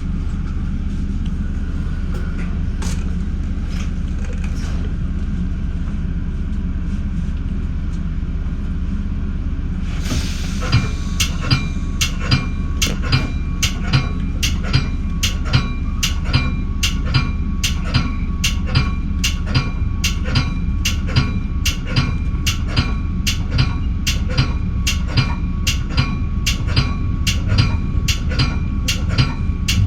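Commuter train running with a steady low rumble. About ten seconds in, a bell starts ringing rapidly, about two strokes a second, and keeps on: a grade-crossing warning bell as the train nears a crossing.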